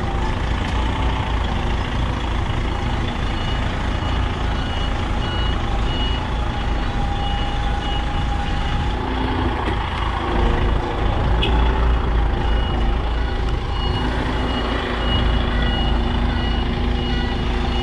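Container truck's diesel engine running at low speed under a steady low rumble while it manoeuvres, with its reversing alarm sounding a repeated high beep, most steadily in the second half.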